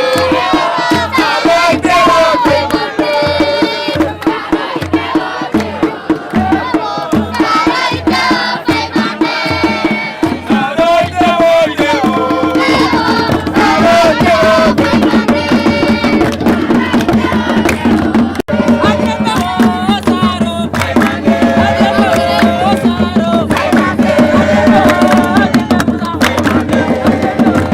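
Hand drums played in a fast, dense rhythm with voices singing over them.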